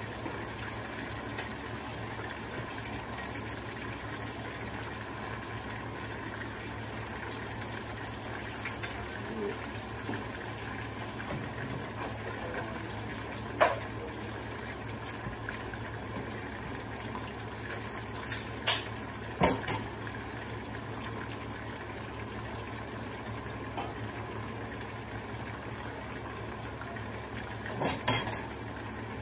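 Chicken pieces and egg-battered cauliflower florets frying in oil in two pans, a steady sizzle. A few sharp utensil knocks stand out around the middle and near the end.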